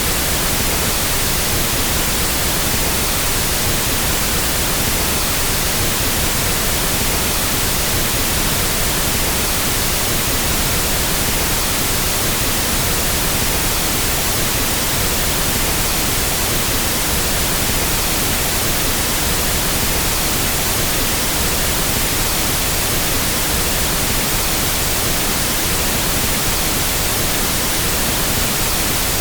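Steady pink noise test signal used to equalize sound systems: an even, unbroken hiss across the whole range.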